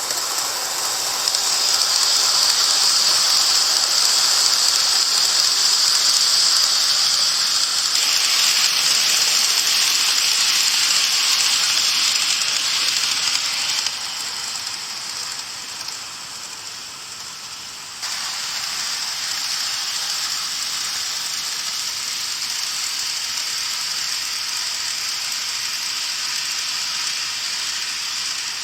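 N-gauge model train running on its track: a steady, high-pitched whirring hiss from the motor and wheels. The loudness changes abruptly a few times, dropping for several seconds in the middle before coming back.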